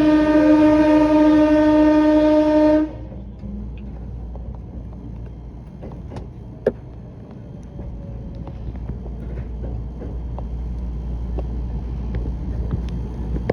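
A train's warning horn sounds one long, loud, steady blast, blown as hard as for a person on the track, and cuts off sharply about three seconds in. After it there is only a low rumble with a few light clicks.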